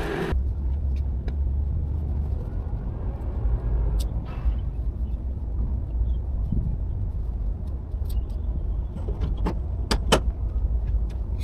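Semi truck's diesel engine idling with a steady low rumble. A few sharp clicks and knocks come about four seconds in and again near the end.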